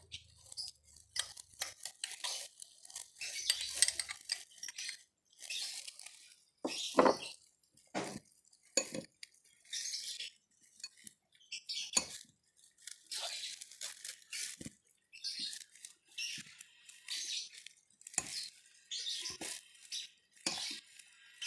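A spoon stirring and mashing chunky chili-tomato sambal in a glass bowl, working in tamarind water. It scrapes and clinks against the glass in repeated, irregular strokes, with a few sharper knocks against the bowl.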